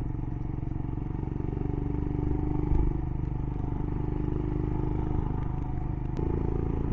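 Royal Enfield Himalayan's single-cylinder engine running steadily on the move, with a brief low thump about three seconds in and a change in engine note about six seconds in.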